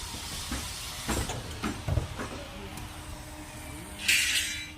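Construction-site work noise: a few sharp knocks and thuds, then a loud, short hiss near the end.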